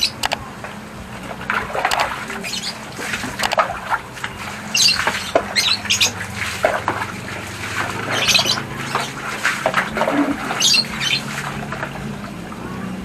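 Birds squawking again and again in short high calls, over a low steady hum.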